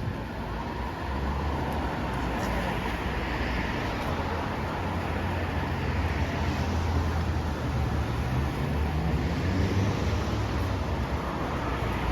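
City street traffic: a nearby vehicle's engine runs with a steady low rumble, while cars pass with a hiss that swells and fades a few times.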